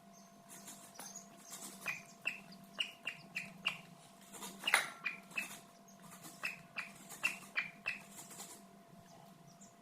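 A bird giving short, sharp calls, about two or three a second, starting a couple of seconds in and fading out near the end, over a faint steady hum.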